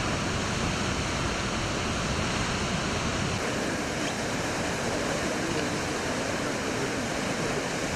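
Düden Waterfall in spate after heavy rain, its swollen, muddy water pouring down in a steady, unbroken rush.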